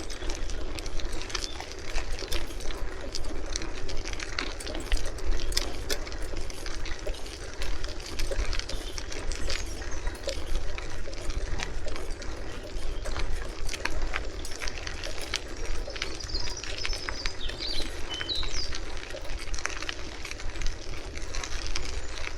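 Bicycle being ridden: steady wind rumble on the microphone with frequent small clicks and rattles from the bike.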